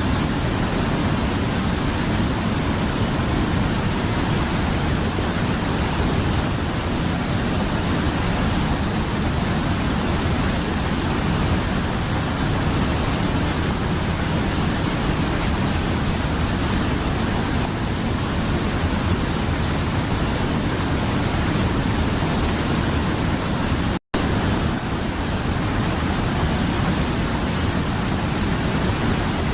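Mountain river flowing: a steady, full rush of running water. It cuts out for an instant about three-quarters of the way through.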